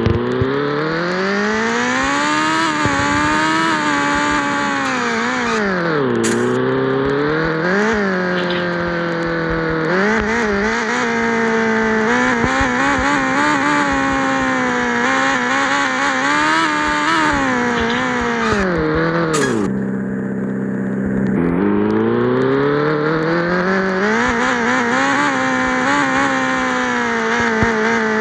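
Yamaha XJ6 inline-four motorcycle engine through an open exhaust pipe, loud as the bike is ridden. The revs climb and fall again and again with throttle and gear changes. It drops back to a steady idle for a second or two about two-thirds of the way through, then pulls away again.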